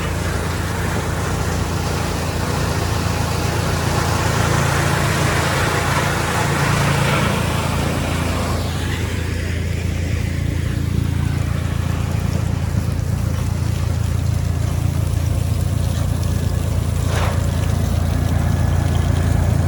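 Electric-motor drum wood chipper running steadily with a deep hum, louder and noisier for several seconds in the first half as material passes through the drum, and a single sharp click near the end.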